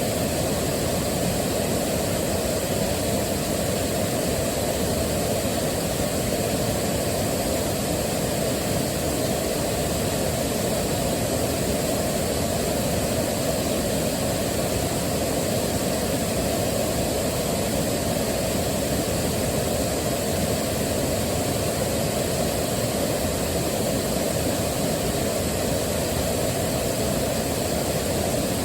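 Waterfall rushing: a steady, unchanging rush of falling water, heaviest in the low and middle pitches.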